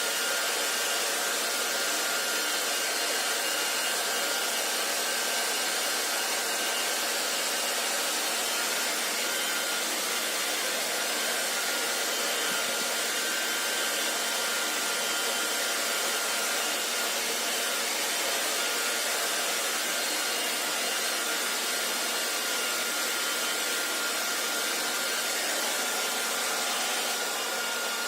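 Hair dryer blowing steadily, an even airy hiss with a faint steady whine from its motor. It drops slightly in level near the end.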